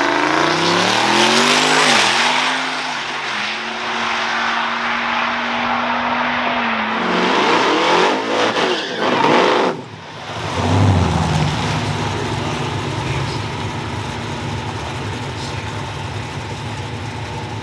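Drag cars revving hard at the start line: the engine pitch climbs, holds high and steady for several seconds, then rises and falls again. About ten seconds in the sound cuts off sharply, and a Chevy Nova's engine idles steadily close by.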